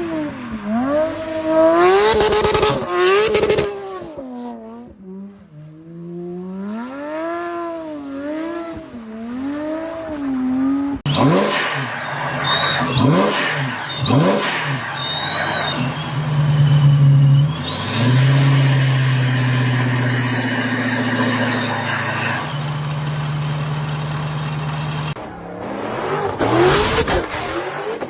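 Drift cars' engines revving hard, the pitch swinging up and down over and over as the throttle is blipped. After an abrupt change about 11 seconds in, an engine is held at high, fairly steady revs under a broad hiss of tyre squeal. Near the end, revs sweep up again.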